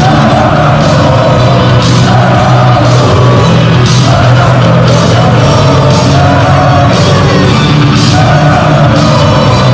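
Football stadium crowd chanting loudly in unison, in phrases of about two seconds, with a sharp beat at the start of each phrase.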